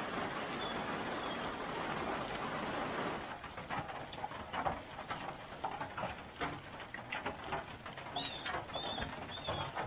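Steady rain hiss that drops off sharply about three seconds in, leaving scattered drips and patters of raindrops. A bird chirps a few times, mostly near the end.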